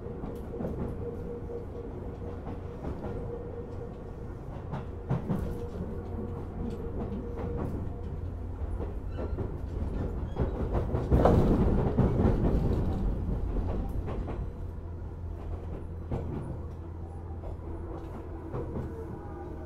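Running sound of a Tobu 10000-series electric commuter train: a steady low rumble with a held motor hum and scattered rail-joint clicks, swelling louder about eleven seconds in and easing off again.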